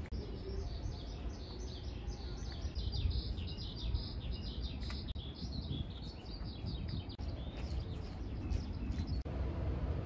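A bird singing a long, fast run of high twittering notes that stops near the end, over a low steady rumble.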